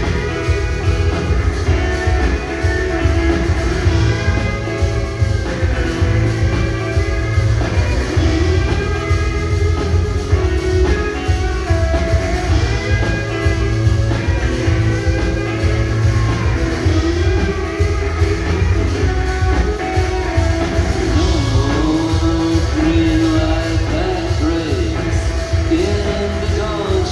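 Rock band playing a song live, the music continuous and loud throughout.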